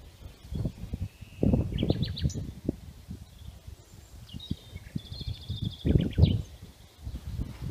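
Small birds singing outdoors: a short series of high notes about one and a half seconds in, and a rapid high trill about five seconds in. These sit over louder, irregular low rumbles and bumps on the microphone.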